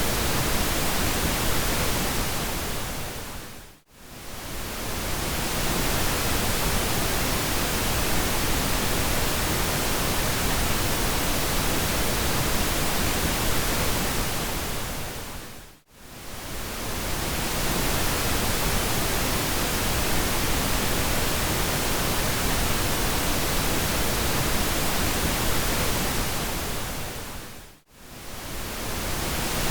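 Steady pink noise, an even hiss across the whole range, that fades briefly down to near silence and back up three times, about twelve seconds apart.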